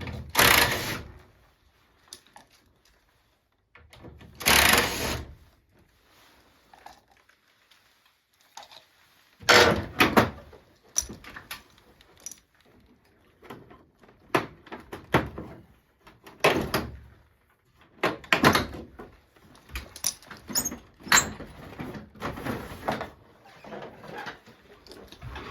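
Intermittent knocks, clatter and scraping from hands-on installation work, with two longer scrapes early and a run of short knocks and rattles from about nine seconds in.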